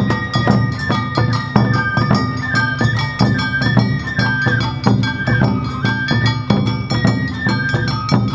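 Awa Odori festival music played live: a bamboo flute melody over taiko drums and the bright clang of the kane hand gong, in a steady, driving beat.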